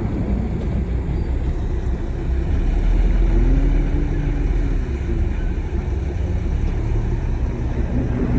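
Heavy diesel engine of earthmoving machinery running, swelling in pitch and level about three seconds in and easing off again about two seconds later.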